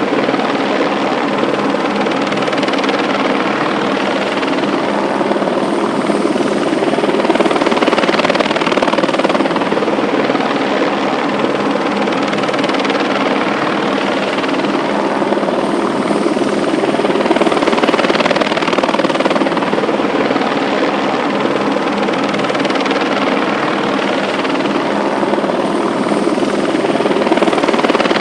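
A loud, steady mechanical drone with a few constant hum tones in it, swelling and easing slightly every several seconds.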